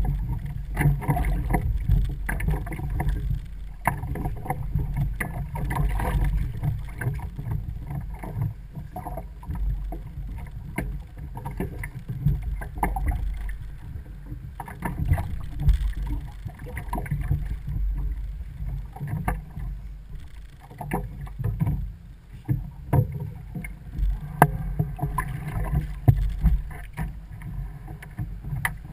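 Water lapping and knocking against a fishing kayak's hull, heard through an action camera's waterproof housing: a steady low rumble with frequent small knocks and clicks.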